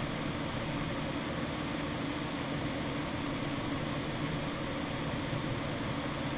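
Steady, even hum and hiss of room background noise, with no distinct events.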